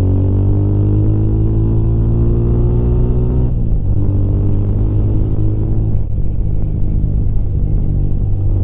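Rusi Classic 250 motorcycle engine under way, with heavy wind rumble. Its pitch rises steadily as it accelerates, then drops about three and a half seconds in at a gear change or throttle lift, and it runs steadier after that.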